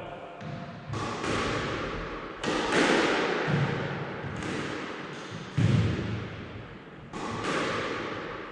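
Squash ball being struck by a racket and hitting the court walls and floor: about eight sharp knocks, each followed by a long echoing decay in the enclosed court.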